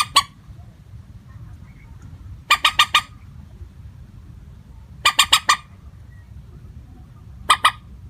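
Common moorhen calling: short bursts of two to five rapid notes, repeated about every two and a half seconds in the same unvarying pattern.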